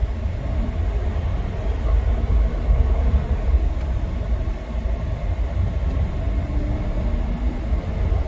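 Interior sound of a 2014 Ford F-150 with a V6 engine pulling away and accelerating: a steady low rumble of engine and road noise, with a faint engine note that rises slowly.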